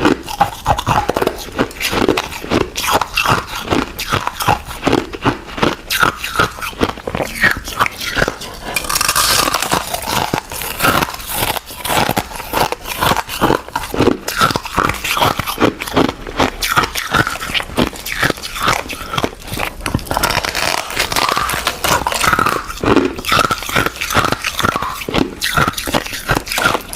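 Ice being bitten and chewed: a fast, unbroken run of crisp crunches, several a second.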